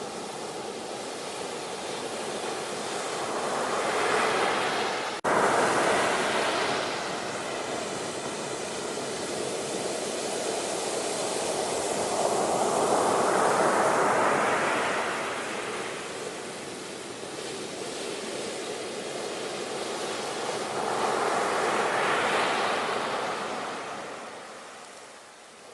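Ocean surf: waves breaking and washing in, swelling loud about four seconds in, again around the middle and once more near the end, with a sudden brief dropout just after the first swell.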